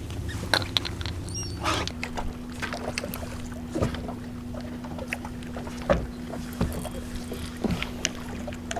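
Boat motor humming steadily; its tone shifts about two seconds in. Scattered light clicks and knocks run through it.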